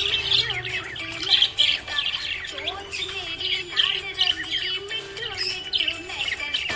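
A flock of small pet parrots chirping and squawking continuously, a busy stream of quick high chirps and short whistled glides.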